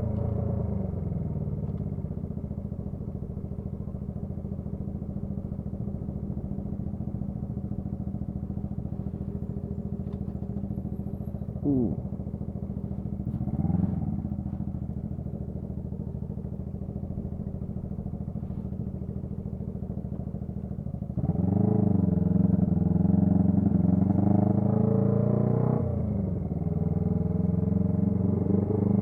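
Honda CB125T's parallel-twin engine, fitted with a loud muffler, running steadily at low revs, with two short rises and falls in pitch around the middle. Past two-thirds of the way it gets louder and the engine revs climb, dropping briefly for a gear change before pulling again.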